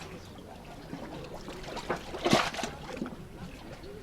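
Sea water lapping gently, with one louder rushing burst about two seconds in.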